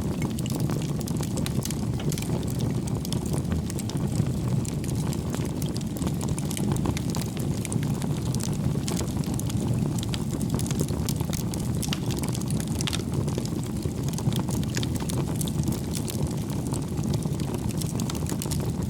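Wood fire burning: a steady low rumble of flames with many small, irregular crackles and pops from the burning logs.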